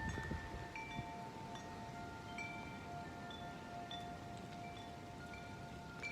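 Wind chimes ringing in strong gusty wind. Several long, sustained low tones overlap, and higher tubes are struck now and then at irregular moments. Wind rumbles on the microphone underneath.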